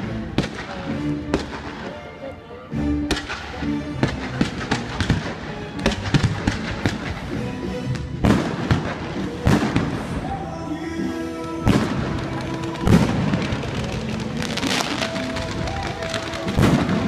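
Fireworks going off in quick, irregular bangs and crackles, with the loudest bang about thirteen seconds in, over music playing.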